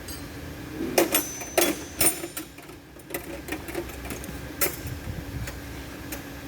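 Metal tools and parts clinking and knocking: a few sharp strikes, one with a short metallic ring, and lighter rapid clicking between.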